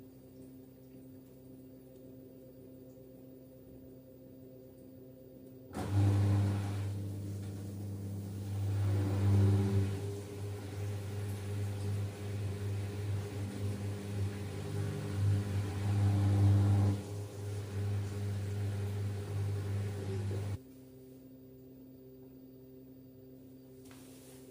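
LG F10B8MD front-loading washing machine on its final spin at 1150 rpm, the drum and motor giving a steady hum of several tones. About six seconds in, the drain pump switches on with a loud low hum and the rush and gurgle of water being pumped out, then cuts off abruptly about fifteen seconds later. The owner reports the machine as healthy, with no jumping and no bearing drone.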